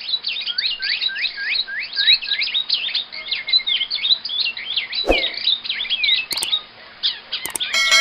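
Many small birds chirping continuously and overlapping. A single knock comes about five seconds in, a few clicks follow, and a held musical tone starts just before the end.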